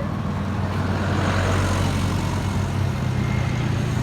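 Heavy vehicle engine running with a steady low hum, with a rush of noise that swells and fades about a second and a half in.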